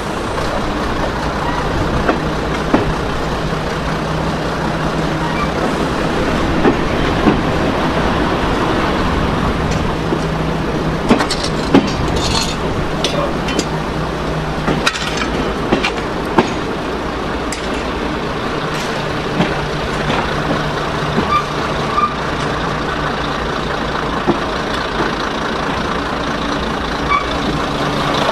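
Heritage diesel train running slowly, heard from an open window: a steady low engine drone with wheel and wind noise, and a cluster of sharp clicks and knocks from the wheels on the track about halfway through.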